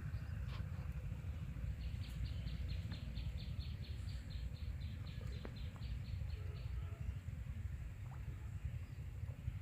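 A bird calling a rapid run of about twenty short high notes, roughly four a second, for about five seconds, over a steady low rumbling noise.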